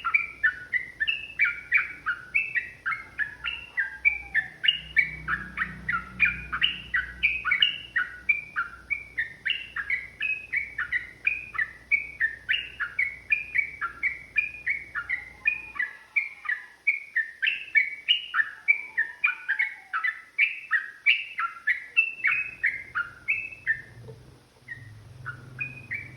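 Yellow-vented bulbul (trucukan) singing a long, unbroken run of quick, chattering notes at about three or four a second. The song thins to a few scattered notes near the end.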